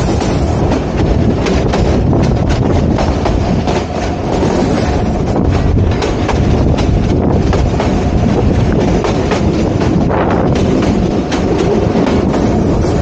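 Passenger train running at speed, heard close beside its coaches: a steady rumble of wheels on the track with many sharp clicks as the wheels cross the rail joints.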